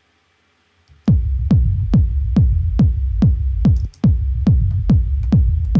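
A 909 kick drum playing four to the floor at about two hits a second, each hit falling in pitch, over a continuous deep techno rumble built from the kick. It starts about a second in and cuts out for a moment just before the four-second mark.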